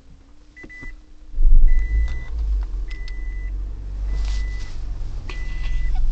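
2008 Toyota Prius dashboard warning beeper sounding a steady high beep about once a second, each beep about half a second long. About a second and a half in, a loud low rumble from the car's engine comes in and keeps going under the beeps.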